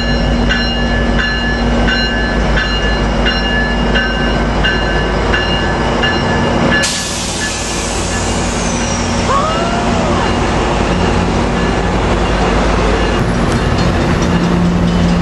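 Railroad crossing bell dinging about twice a second over the low, steady hum of a train. About seven seconds in the bell cuts off abruptly, leaving the steady rumble of the train.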